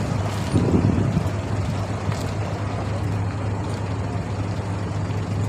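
Abra water taxi's diesel engine running with a steady low drone, briefly louder just before a second in.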